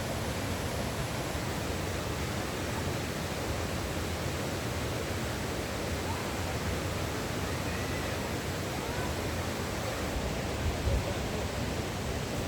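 Steady rush of falling water from a waterfall, with a few faint bird calls about halfway through and a brief low thud near the end.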